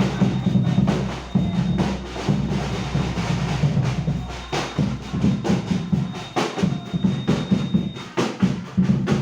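Sahur wake-up percussion music: a steady beat of drums with sharp wood-block-like hits over a low bass line.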